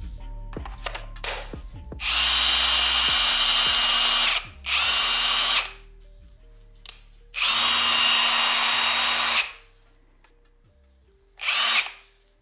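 Parkside Performance PDSSAP 20-Li A1 cordless impact driver running in four bursts, each with a steady high whine: two of about two seconds, one of about a second, and a short one near the end that winds down as the trigger is let go.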